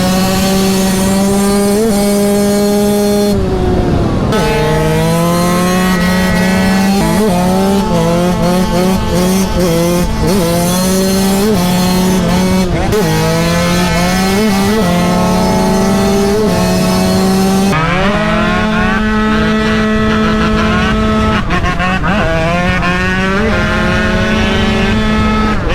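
Yamaha YZ125 two-stroke single-cylinder engine being ridden hard, its revs climbing and dropping again and again as it goes through the gears and on and off the throttle.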